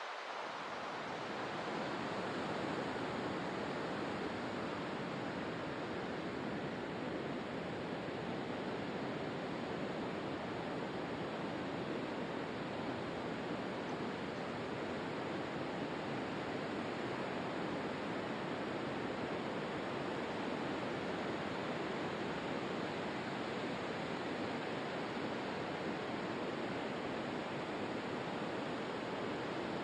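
Steady rushing water, an even, continuous rush with no rise and fall of breaking waves.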